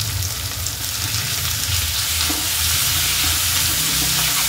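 Sliced onions sizzling in hot oil in a metal kadai, stirred and scraped with a steel ladle, with chopped tomatoes added partway through. A steady low hum runs underneath.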